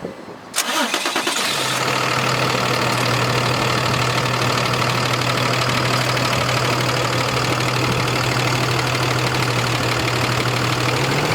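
Cummins 6.7L ISB straight-six diesel in a dump truck cold-started: the starter cranks for about a second, the engine catches and then idles steadily.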